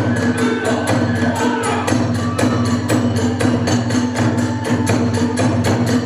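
Hiroshima kagura accompaniment: drums and small hand cymbals keep a fast, even beat of about five strokes a second, under a held, wavering bamboo flute line.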